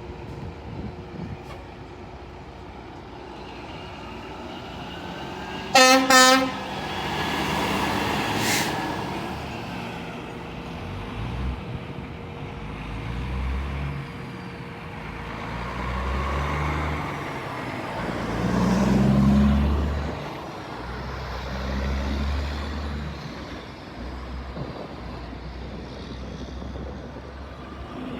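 Fire truck air horn giving a short, loud blast about six seconds in. Heavy truck engines follow, rising and fading in several swells as vehicles go by, loudest a little before twenty seconds.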